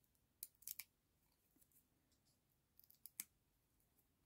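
A few faint, crisp clicks and snips of paper craft work: a short cluster about half a second in and a few more around three seconds in, with near silence between.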